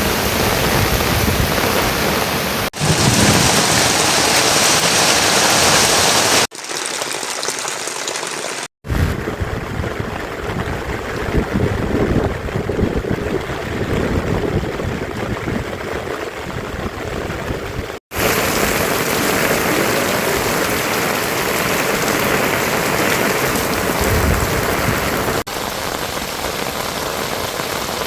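Heavy rain pouring down in a steady, dense hiss, spliced from several recordings. Its sound changes abruptly about five times, with two very brief silent gaps at cuts.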